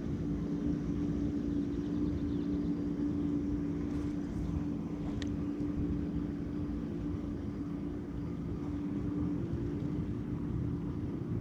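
A steady, unbroken engine drone with a low rumble, holding one pitch throughout.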